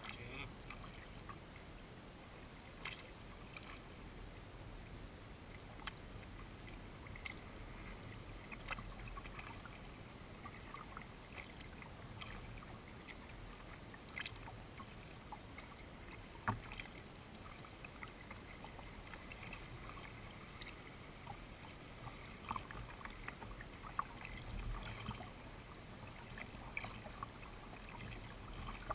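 Kayak paddling: faint splashes of the paddle blades in the water and drips, with scattered small ticks and knocks at an uneven pace.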